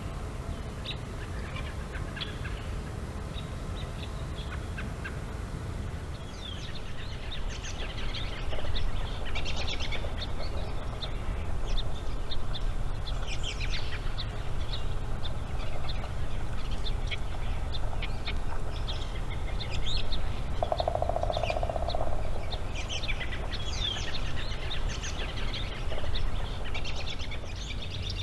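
Outdoor wildlife sound: many short, high chirps and calls that grow busier from about six seconds in, with one brief lower-pitched call about three quarters of the way through, over a steady low rumble.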